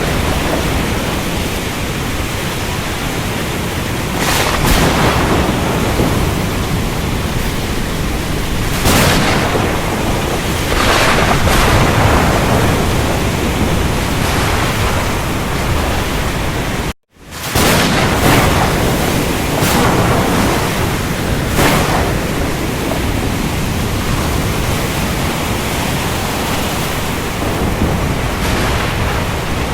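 Storm ambience: a steady, loud rush of heavy rain, with a louder surge of thunder or storm noise every few seconds. About seventeen seconds in it cuts to silence for half a second, then comes straight back.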